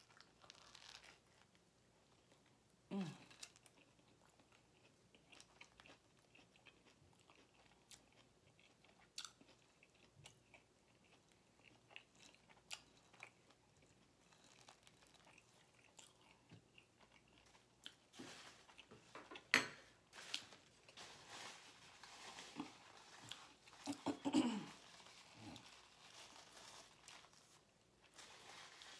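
Quiet mouth sounds of a person eating a cheesesteak sub: biting into the roll and chewing, with scattered small smacks and clicks.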